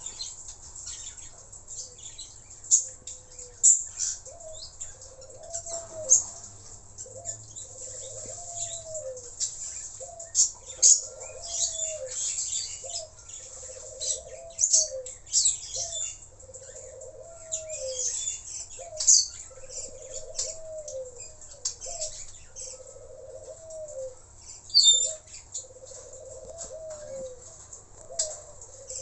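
Nuri tanau (long-tailed parakeet) calling: many sharp, shrill high-pitched calls at irregular intervals. A softer low note repeats about once a second underneath.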